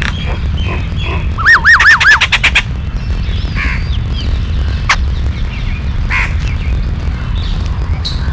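Yellow-billed babblers calling: a quick run of about six loud, arched notes about a second and a half in, with scattered short harsh call notes before and after, over a steady low rumble.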